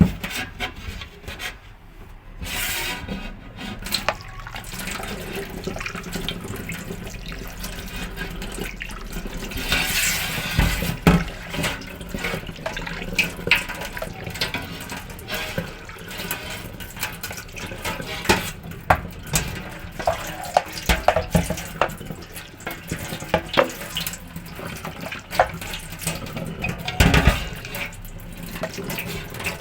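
Tap water running into a sink while fridge parts are washed by hand, with frequent small knocks and clatters as the pieces are handled.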